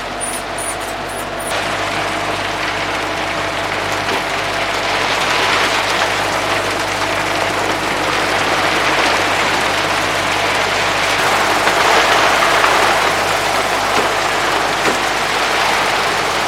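Rush of wind and sea around a sailing yacht in rough weather, swelling in surges several times, over a faint steady hum.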